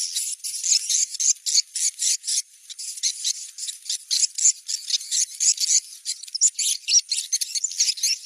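Recorded swiftlet call for a location check: a rapid, unbroken run of short, rasping edible-nest swiftlet chirps, several a second, over a steady high tone.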